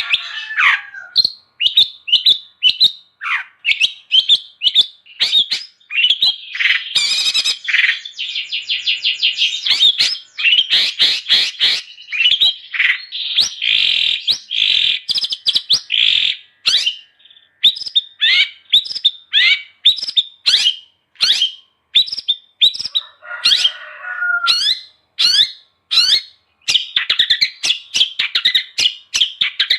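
Long-tailed shrike (cendet) singing vigorously: a rapid, continuous string of sharp down-sweeping whistled notes, broken by fast chattering trills and a harsh rasping call near the start and again about two-thirds of the way through.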